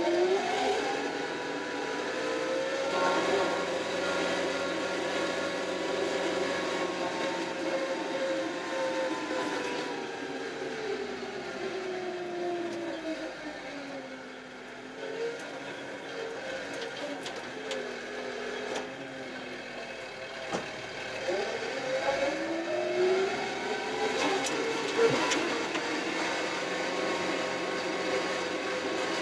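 Kioti RX7320 tractor's diesel engine changing speed: it revs up at the start and holds, drops to a low idle around the middle, then revs back up about two-thirds of the way in and holds steady.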